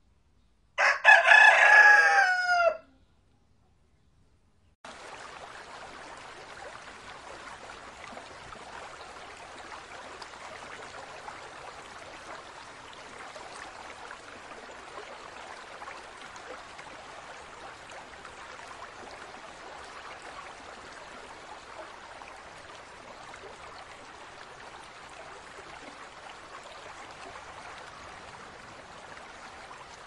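A rooster crows once, loudly, starting about a second in and lasting about two seconds. After a short silence, a steady rush of running aquarium water starts about five seconds in.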